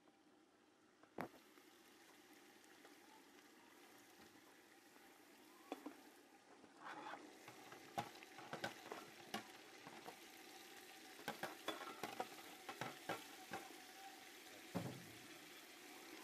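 Minced meat frying in oil in an aluminium pot, a faint steady sizzle. A metal spoon knocks and scrapes against the pot as it is stirred, once about a second in and then often from about six seconds on.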